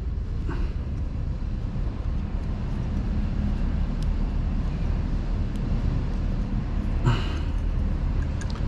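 Steady low background rumble, with a short click about seven seconds in.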